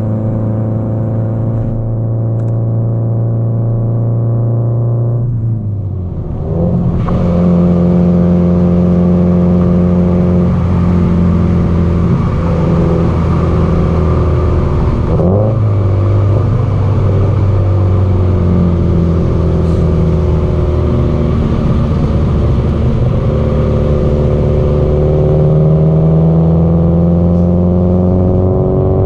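Subaru Impreza GDB-E's turbocharged flat-four engine running through an aftermarket muffler while driving. Its note holds steady at a cruise, dips briefly about five seconds in, then comes back louder. The pitch shifts near the middle and climbs steadily towards the end as the car accelerates.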